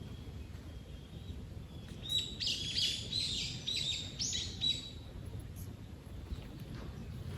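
A songbird calling: a quick run of about eight high, falling chirps starting about two seconds in and lasting roughly three seconds, over faint steady outdoor background noise.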